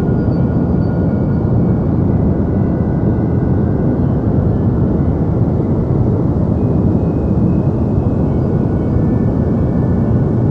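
Deep white noise: a steady, unbroken rushing hiss weighted toward low pitches, with a few faint thin tones high above it.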